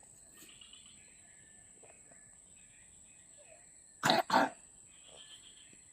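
A person coughing twice in quick succession about four seconds in, over a faint steady high-pitched hum.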